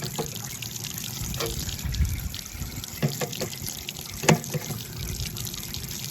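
Water running and splashing from the built-in watering system of a Yard Bird chicken plucker, with a few sharp knocks, the loudest a little past four seconds in.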